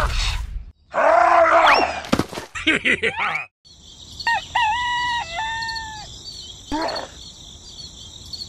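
Strained voice groans and grunts, then, after a short gap, a rooster crowing in stepped held tones over steady chirping birdsong, with one more short groan near the end.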